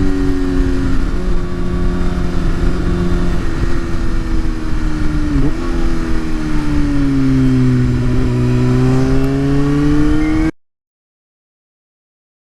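Motorcycle engine running at road speed over heavy wind and road rumble, its pitch dipping briefly, sinking slowly and then climbing again as the throttle changes. The sound cuts off completely about ten and a half seconds in.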